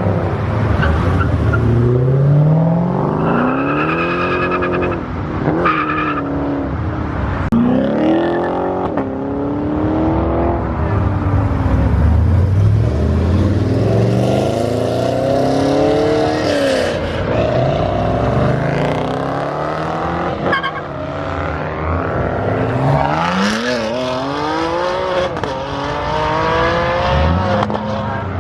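Cars accelerating hard one after another, their engines revving up and falling back many times.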